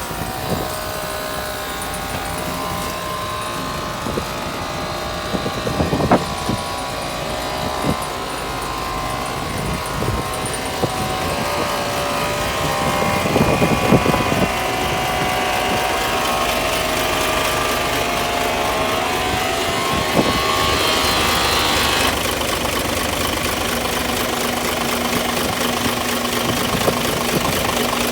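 Isuzu Giga heavy truck's diesel engine running, its pitch rising and falling as it is revved, with a few sharp knocks along the way. About three-quarters of the way through it settles into a steady idle with an even diesel clatter.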